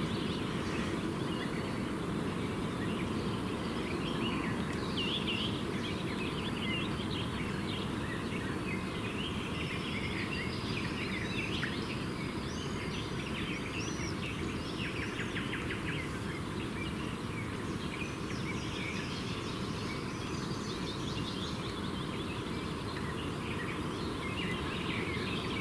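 Wild birds chirping and calling in many short notes and quick sweeps, over a steady low background noise.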